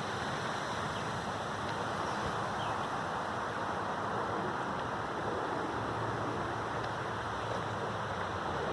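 Steady rushing outdoor ambience, with a few faint high chirps.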